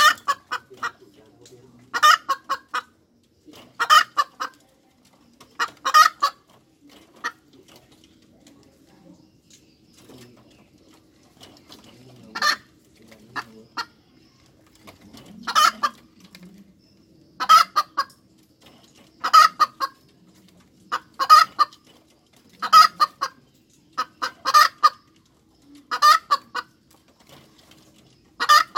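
A hen cackling: clusters of short, sharp clucks repeated about every two seconds, with a pause of a few seconds early in the middle. This is the 'cục tác' cackle a hen typically gives after laying an egg.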